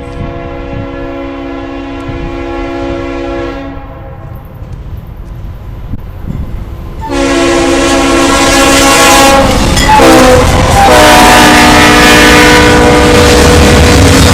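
Diesel locomotive air horn sounding a multi-note chord: one blast of about three and a half seconds, a pause, then a louder, longer blast starting about halfway through, with a brief break near the end. A low rumble of the train runs underneath.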